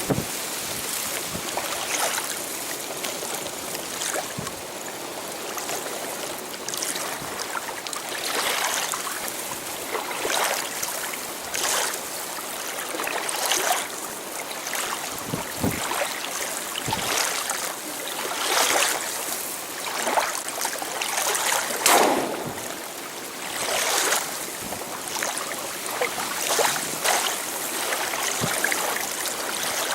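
Water sloshing and splashing in repeated surges every second or two, over a steady hiss.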